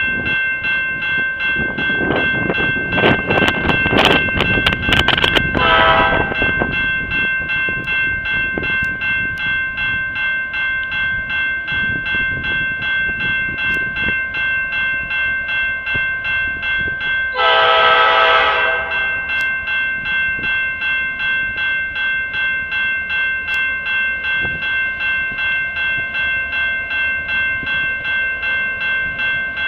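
Grade-crossing warning bell ringing about twice a second as a freight train comes through. Its diesel locomotive sounds the horn loudly in the first few seconds over heavy rumble, then gives another horn blast of about a second and a half midway through.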